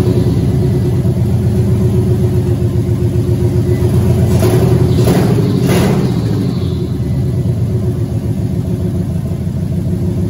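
A freshly rebuilt GM LQ9 6.0-litre V8 on its first test fire, running with no exhaust fitted and with one bank's plug wires unplugged, so it fires on only four cylinders. It runs unevenly throughout, with three short sharp cracks about halfway through.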